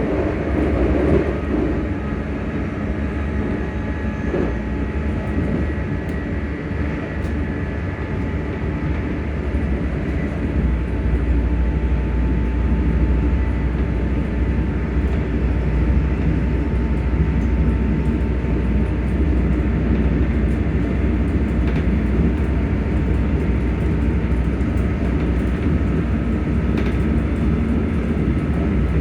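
ScotRail Class 385 electric multiple unit running, heard from on board: a continuous rumble of the train on the rails with the traction motors humming in thin steady tones over it. The low rumble grows heavier about ten seconds in.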